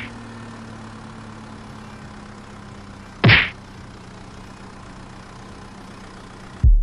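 Vehicle engine idling with a steady low hum, and one sharp hit about three seconds in. The sound cuts off suddenly near the end.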